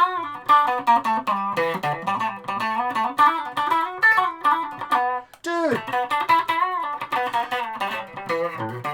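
Electric guitar, a custom multi-pickup Stratocaster, playing a quick single-note riff twice with a short break between, its pickups wired in series and out of phase.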